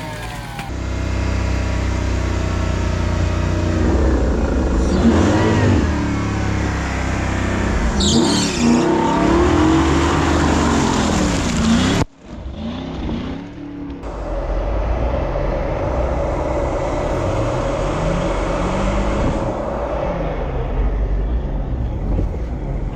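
Off-road 4x4 competition trucks' engines revving hard, the pitch rising and falling again and again under load. About halfway through, the sound breaks off suddenly and another stretch of engine revving follows.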